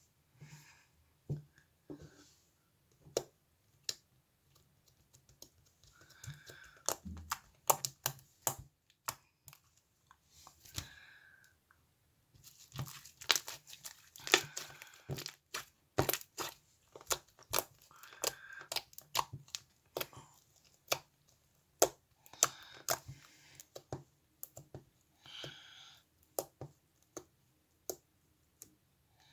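Close handling sounds: many sharp taps and clicks at an irregular pace, mixed with short bursts of tearing and crinkling.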